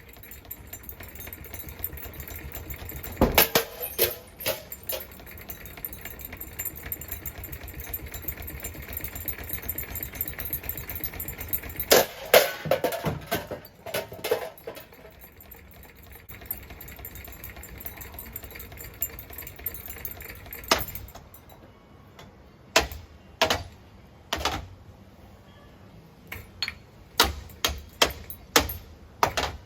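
Hampton Bay Huggington 2 ceiling fan running fast on its variable speed control with a rapid clattering rattle, broken by several loud crashing impacts. About 21 seconds in, the running noise stops, leaving scattered knocks and clicks.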